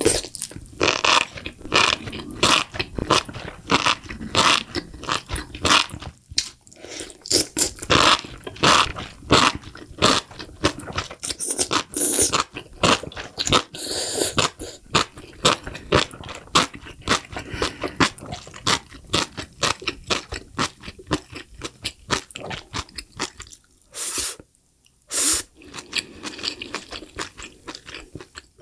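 Close-miked mouth sounds of eating saucy enoki mushrooms: the strands slurped in, then steady wet chewing made of many small clicks and squishes. Two separate louder sounds come near the end.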